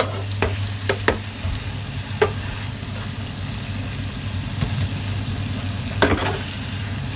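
Dough balls deep-frying in hot oil in a pan, a steady sizzle over a low hum, broken by a few short knocks of a utensil against the pan as they are stirred, the loudest about six seconds in.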